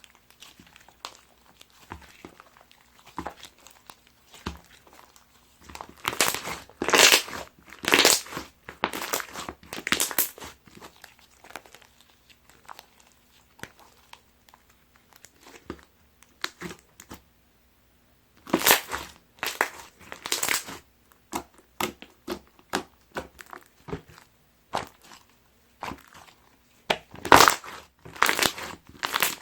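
Chex Choco slime being squeezed and pressed by hand, giving crackling, crunchy pops. Louder runs of crackling come about six seconds in, again after about eighteen seconds and near the end, with softer scattered pops in between.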